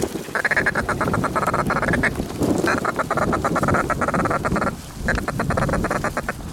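Goose calls blown in three fast runs of rapid clucks, each about two seconds long, calling Canada geese in to the decoys.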